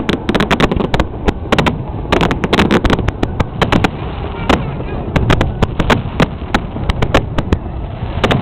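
Aerial fireworks bursting in a rapid, irregular barrage, several sharp bangs a second, over the chatter of a watching crowd.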